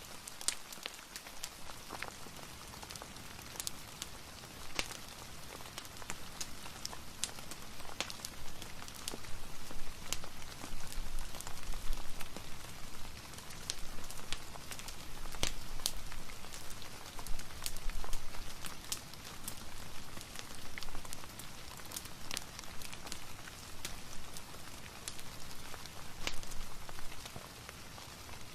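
Steady rain hiss mixed with the scattered crackles and pops of a wood fire in a fireplace.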